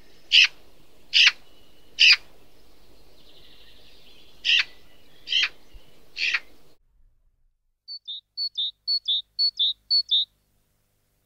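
A Eurasian magpie gives six short, harsh calls, each about a second apart. After a break, a great tit sings its two-note 'tee-cher' phrase five times in quick succession, each a high note dropping to a lower one.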